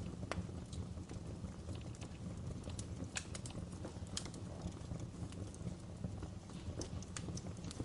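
Wood fire burning in a fireplace: irregular crackles and sharp pops over a low, steady rumble.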